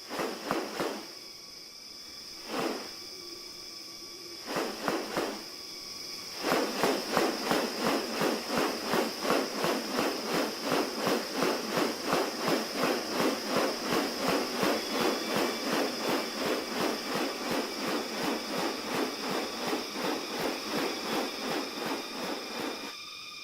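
Rainforest animal sounds: a steady high-pitched insect drone, with a few separate calls in the first seconds, then from about six seconds in a long run of rapid pulsing calls, about three a second, that stops shortly before the end.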